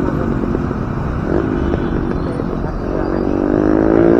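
A Bajaj Pulsar NS160 motorcycle's engine running on the move, with wind rushing over the microphone. Near the end the engine note rises as the bike accelerates.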